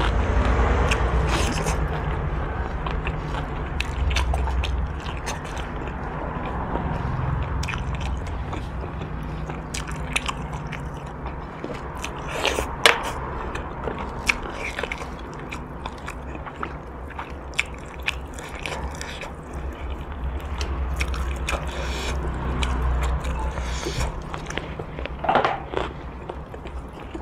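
Close-miked eating of boiled pork bones: steady chewing and biting of the meat, with scattered wet smacks and sharp clicks as it is pulled and torn from the bone.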